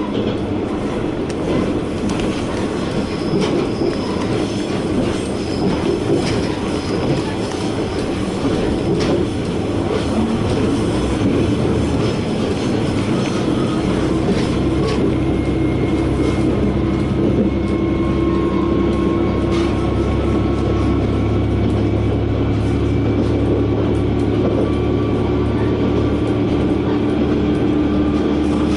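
Diesel railcar running, heard from inside the cabin: a steady rumble with a few sharp rail-joint clicks and thin wheel-squeal tones in the first half, then a stronger, steady engine drone from about halfway through.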